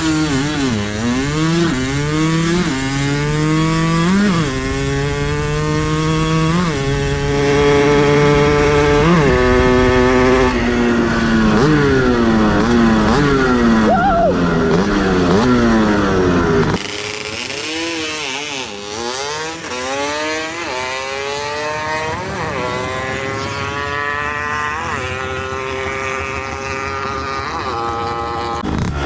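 240cc two-stroke Yamaha Blaster engine in a drag minibike, accelerating hard through the gears on a drag pass: the pitch rises and drops back at each upshift, over and over. About two-thirds of the way in the sound turns abruptly quieter and thinner, and the climb-and-shift pattern starts again.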